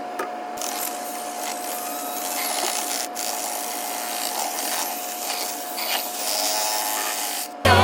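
A small electric power tool's motor running steadily with a constant whine, while a blocked dryer vent is being cleared.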